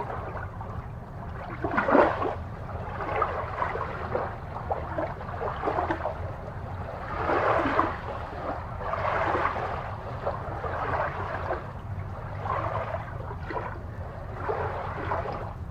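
Aquarium water bubbling and sloshing in uneven swells over a steady low hum.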